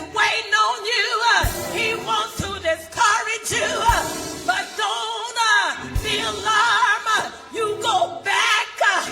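Gospel music with singing voices over instruments, and a low beat thumping about every two seconds.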